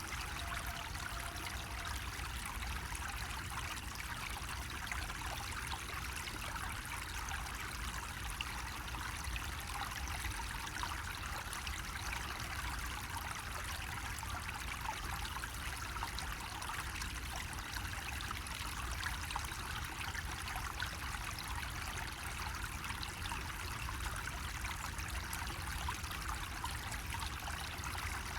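Water running steadily from a bamboo faucet, a continuous trickling splash, over a steady low rumble.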